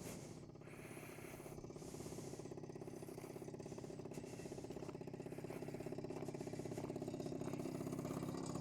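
SYM Jet2 50's small two-stroke scooter engine idling at a steady, even pulse, with a light rattle from a loose protector cover.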